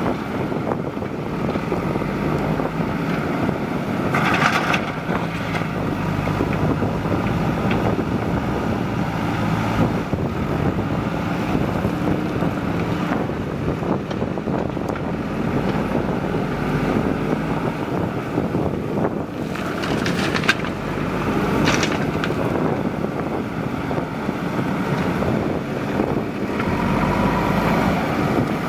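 Diesel engine of a JCB 3DX backhoe loader running steadily at working revs, with wind on the microphone.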